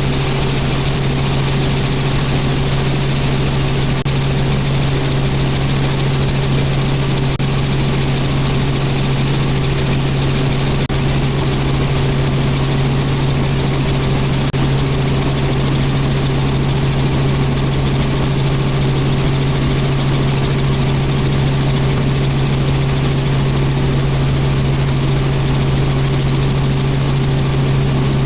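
Robinson R44 helicopter in flight: its six-cylinder Lycoming piston engine and rotors make a steady drone with a strong low hum that does not change.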